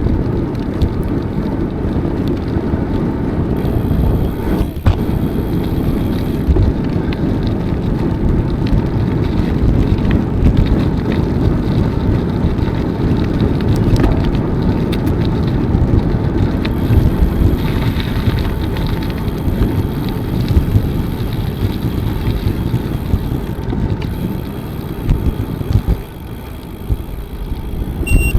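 Riding a bicycle: wind buffeting the microphone over tyre rolling noise, a steady low rumble that eases briefly near the end.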